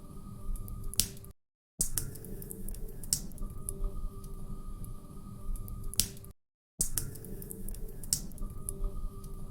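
Wood fire crackling in a fireplace: sharp pops and snaps over a low rumble. It cuts out to silence twice, briefly.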